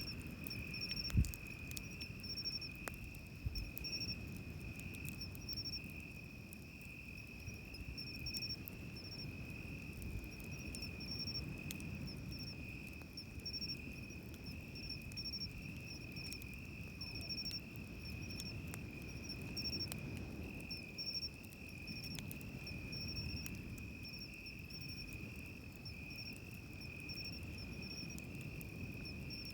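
Night insects trilling in a steady high tone, with a second insect chirping in short regular pulses above it. Beneath them is the low wash of surf on the beach, and a campfire crackles now and then, with one sharp pop about a second in.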